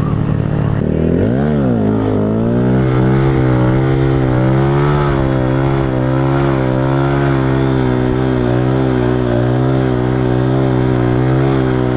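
Single-cylinder motorcycle engine of a KTM 690 SMC supermoto: it revs up and drops back about a second in, then holds a steady pitch under throttle, wavering slightly, for the rest of the time.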